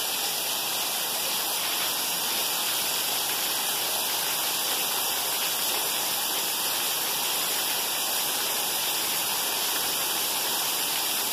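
Heavy rain, with runoff pouring off roof edges in streams and splashing onto a flooded paved floor: a steady rushing.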